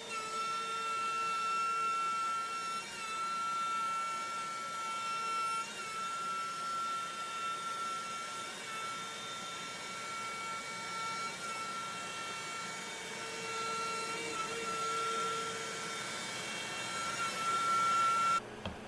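Makita router spinning in a CNC machine while surfacing an MDF spoil board: a steady high whine that wavers briefly every few seconds, over the rush of a shop vac pulling the dust away. It cuts off abruptly near the end.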